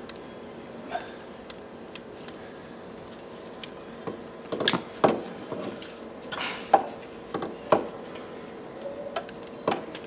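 Irregular clicks and knocks of hard parts and tools being handled and fitted, most of them in the middle and near the end, over a faint steady hum.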